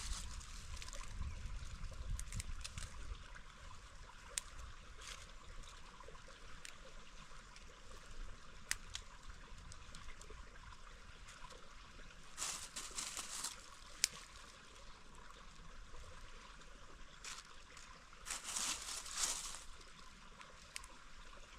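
A mountain stream trickling steadily, with scattered sharp clicks and two louder bursts of rustling, about halfway through and near the end.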